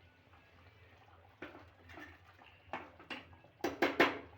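A spoon knocking and clinking against a cooking pot while butter is stirred into the curry: a few soft knocks, then three sharp metallic clinks close together near the end.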